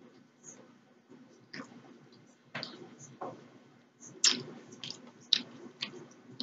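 Close-miked mouth sounds of eating shrimp noodles: chewing with a string of sharp, wet smacks and clicks, most of them in the second half.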